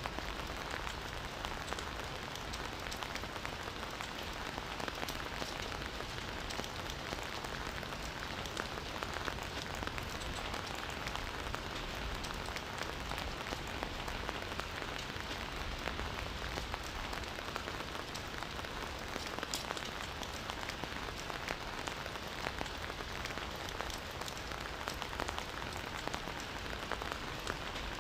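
Steady rain falling, a continuous patter of many small drops hitting a surface.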